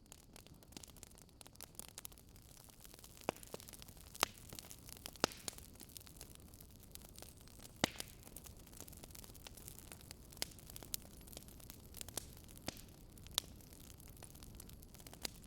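Wood fire crackling: scattered sharp pops and snaps over a steady low hiss, with a few louder pops standing out.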